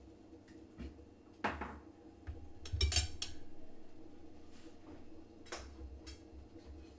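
Cutlery clinking and knocking against a plate: a few scattered sharp clinks, with the loudest cluster about three seconds in.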